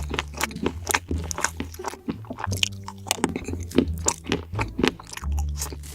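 A person biting and chewing crunchy food close to the microphone: a rapid, irregular run of crisp crunches.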